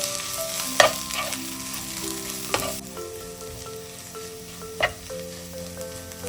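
Food frying and sizzling in a pan while it is stirred, with a spoon knocking against the pan three times; the sizzle cuts off abruptly about halfway through. Light background music plays underneath.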